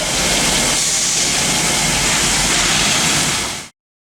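A loud, steady hissing rush with a low rumble under it, cutting off abruptly near the end.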